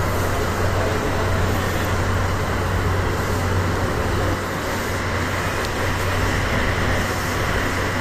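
JR West DD51 diesel-hydraulic locomotive idling at a standstill: a steady low diesel hum.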